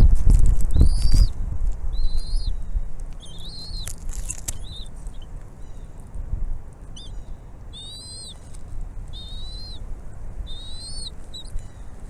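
Bald eagles calling: a series of about ten high, thin whistled calls, the early ones rising then dropping and the later ones quavering chitters. A loud low rumble fills the first second or so.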